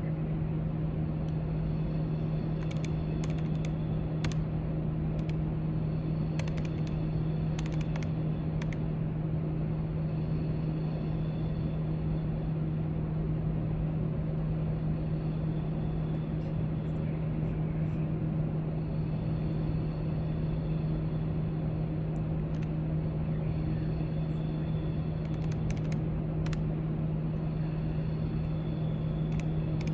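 Library background noise: a steady low hum with scattered light clicks and taps throughout.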